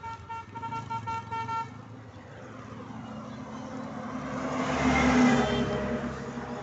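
A vehicle horn sounding in short toots, then a vehicle approaching and passing along the highway, its noise building to a peak about five seconds in and fading.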